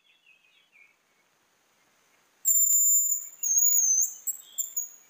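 Hazel grouse whistling its song: a very high, thin, drawn-out whistle starting about two and a half seconds in, followed by a shorter broken phrase of quick notes. Faint high chirps come in the first second.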